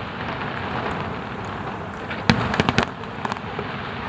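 Aerial fireworks going off: a continuous crackling rumble, with a sharp bang about two seconds in followed by a quick run of cracks.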